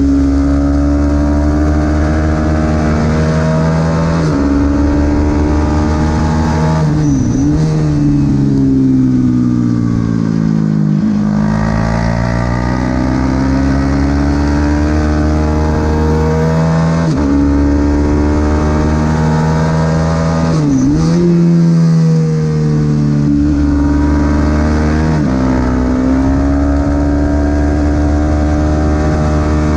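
Small-displacement Supersport 300 racing motorcycle engine at race pace. The engine note climbs through the gears and drops sharply at each shift, falls away under deceleration from about eight to eleven seconds in, then climbs through the gears again.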